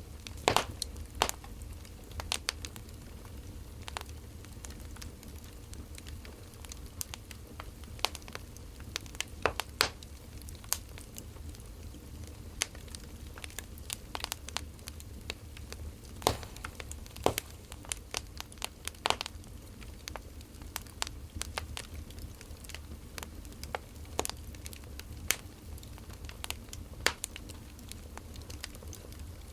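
Wood fire crackling: irregular sharp pops and snaps of burning firewood, a few a second and varying in strength, over a low steady rumble.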